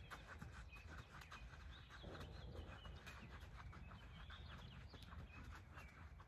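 Faint birds chirping, short calls recurring every couple of seconds, over a low steady rumble.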